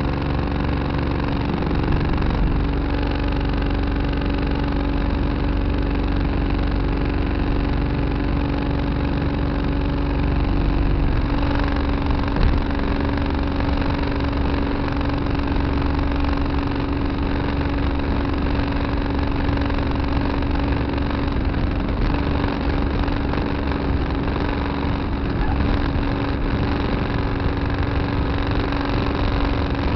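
Tractor engine running steadily, with a constant low drone. A brief swell about eleven to thirteen seconds in.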